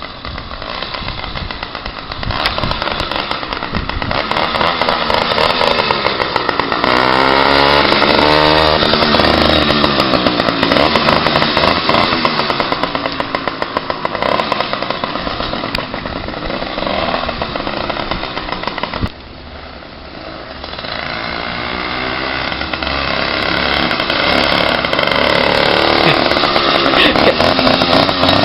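80cc two-stroke motorized-bicycle engine running loud with the baffle removed from its exhaust, revving up and down. It climbs over the first few seconds, drops off suddenly about two-thirds in, then builds up again.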